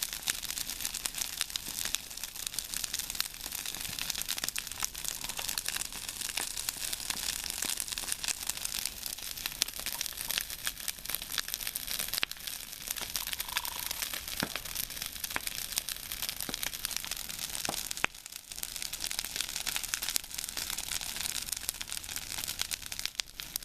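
A big fire of burning hedge branches crackling, with a dense stream of sharp pops and snaps over a steady hiss.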